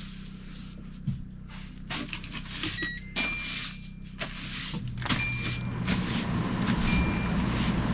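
Portable generator engine running steadily, now carrying the cabin's power through the main breaker. A few short high tones and irregular rushes of noise sound over it.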